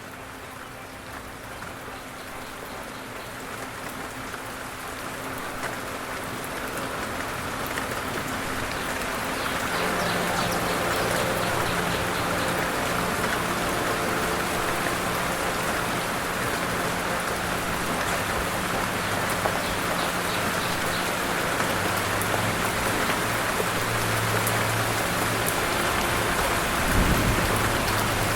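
Steady rain falling, growing louder over the first ten seconds and then holding even, with a faint low hum underneath and a brief low rumble near the end.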